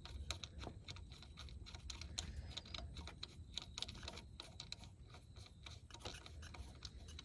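Faint, irregular small clicks and scrapes of hands and tools working on engine parts under a car's hood, while the spark plugs on a V6 are being got at.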